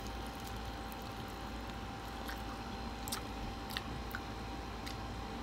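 Faint chewing of a chicken wing, with a few soft mouth clicks, over a steady low hiss.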